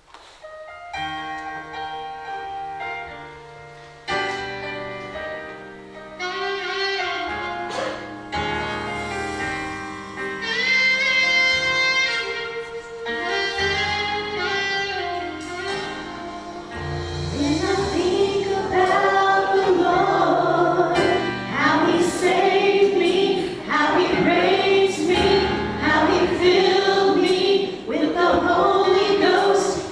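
Worship song performed live, opening with sustained instrumental chords that change every couple of seconds; voices come in singing about halfway through and the music grows louder.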